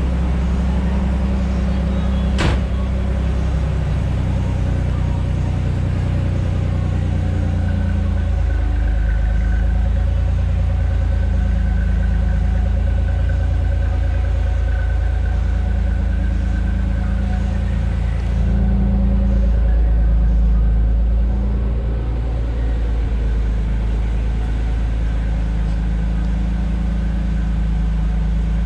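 Nissan 300ZX (Z32) 3.0-litre V6 idling steadily after a cold start, with one sharp click a couple of seconds in. About two-thirds of the way through, the idle grows louder and deeper for a few seconds, then settles back.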